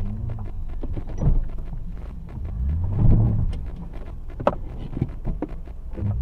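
Low rumble of a vehicle in motion, as picked up by a dashcam, with slow rises and falls in engine pitch and scattered knocks and clicks; the sharpest knock comes about four and a half seconds in.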